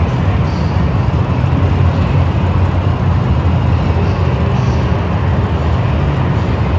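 Monster truck engine running loudly, a steady deep rumble without distinct revs.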